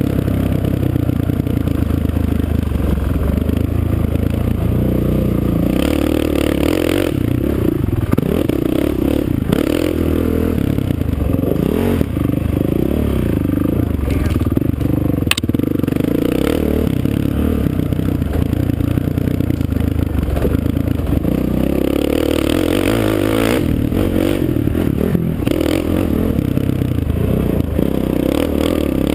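Off-road racing engine running on a woods motocross track, the throttle opening and closing so the pitch keeps rising and falling, with chassis clatter over the rough ground. There is one sharp click about fifteen seconds in.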